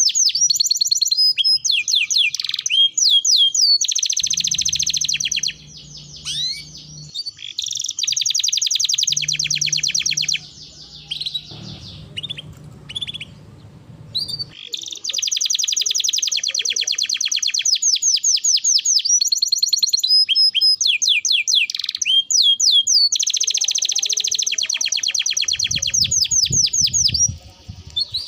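Domestic canary singing loud, long rapid trills and chirping phrases, broken by short pauses, with a faint low hum coming and going underneath.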